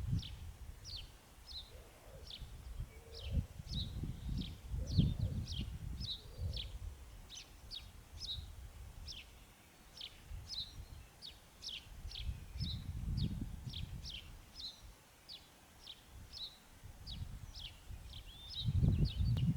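A songbird repeating short, high, downward-sweeping chirps, about two to three a second, without a break. Low gusty rumbling comes and goes underneath, loudest about five seconds in and near the end.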